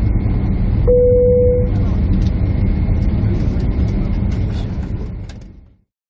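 Steady low rumble of jet airliner cabin noise, with one brief single tone about a second in. The rumble fades out to silence near the end.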